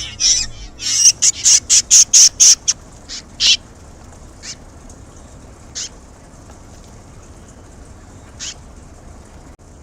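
Swallows calling at the nest: a quick run of short, sharp chirps, about five a second, for under two seconds, then a few single chirps spaced seconds apart.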